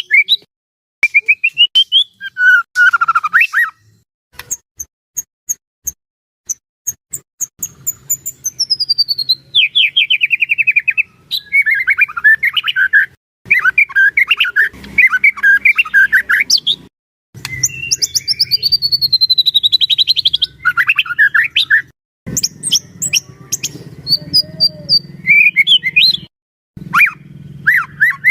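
White-rumped shama (murai batu) singing a loud, varied song: long falling whistled glides, fast trills and dense chattering phrases, broken by short pauses. A faint low hum runs underneath.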